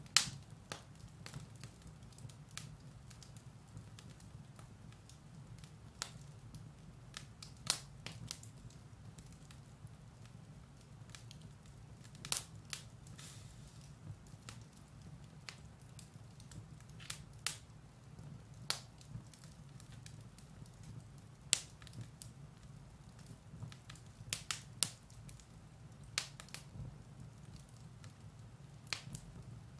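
Firewood burning in a fireplace: irregular sharp crackles and pops over a low, steady rumble of the fire, with the loudest pop right at the start and a cluster of pops a little over three-quarters of the way through.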